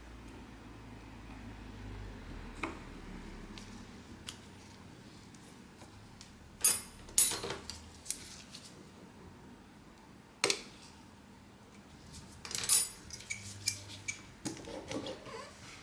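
Small repair tools clicking and tapping against the phone and the work surface: several sharp clicks through the middle, then a run of lighter ticks near the end.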